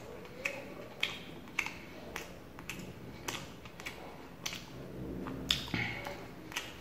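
A person chewing food close to the microphone, with sharp wet mouth clicks and smacks about twice a second.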